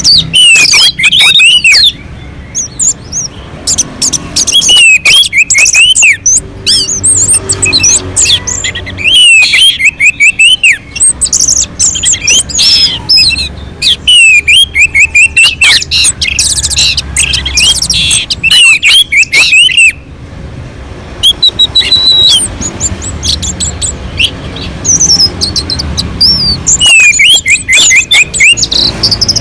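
Orange-headed thrush singing a fast, varied stream of loud whistled and chattering phrases, broken by short pauses.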